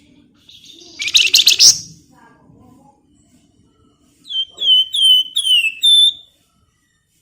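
Flamboyan songbird singing: a rapid, dense rattling chatter about a second in, then near the end a quick series of five clear whistled notes, each sliding down in pitch.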